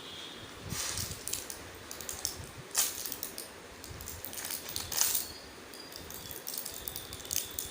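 Irregular small clicks and rustles of objects being handled, with the sharpest clicks about 3 and 5 seconds in.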